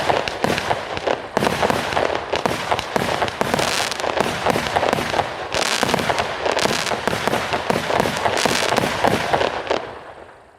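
A 100-shot, 0.6-inch consumer firework cake firing a rapid, dense string of launches and bursts, some breaking into crackling stars. The bangs overlap almost without pause, then fade out near the end.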